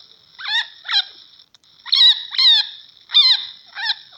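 Chinchilla calling: a run of short, high-pitched squeaking barks, each falling in pitch, coming in pairs about two a second.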